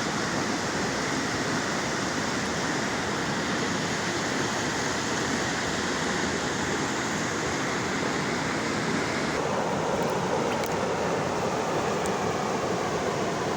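River water rushing in a steady, loud wash of noise. About nine seconds in the sound turns duller and deeper, losing some of its hiss.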